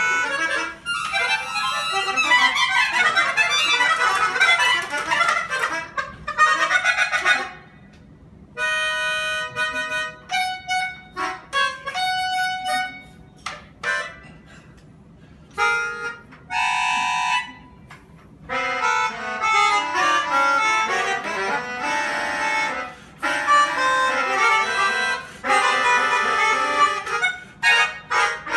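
A free-reed instrument, such as a harmonica, accordion or melodica, playing a melody in short phrases, often several notes at once, with brief pauses between phrases.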